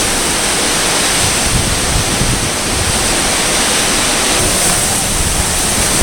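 Typhoon-force wind blowing hard and steadily, a dense rushing noise, with uneven low rumbling from gusts buffeting the microphone.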